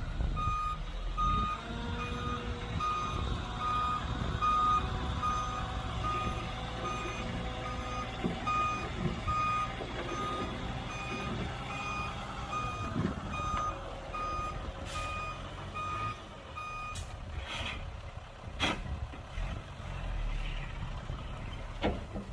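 Reversing alarm of a heavy construction vehicle beeping at an even pace, about one or two beeps a second, over the steady rumble of a diesel engine. The beeping stops a few seconds before the end, while the engine keeps running.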